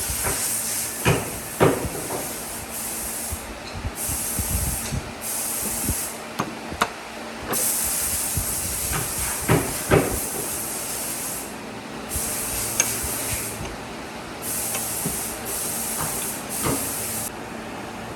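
Compressed air hissing in repeated bursts of one to four seconds, cut on and off, with scattered knocks in between.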